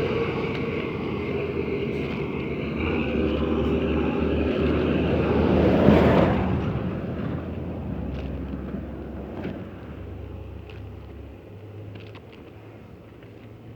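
Motor vehicle passing close in road traffic, its engine hum and road noise building to a peak about six seconds in, then fading away.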